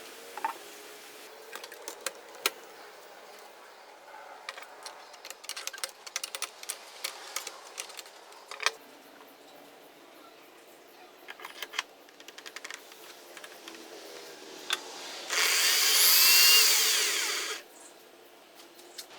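Scattered light clicks and knocks, then about fifteen seconds in an electric drill runs for about two seconds, its whine rising and then falling away.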